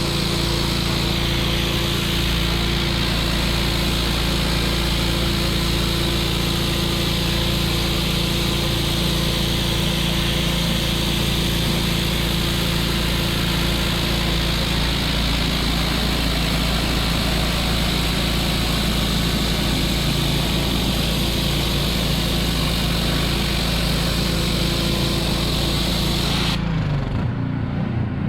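Pressure washer running: a small engine drones steadily under the hiss of the water jet. Near the end the spray cuts off suddenly and the engine note changes.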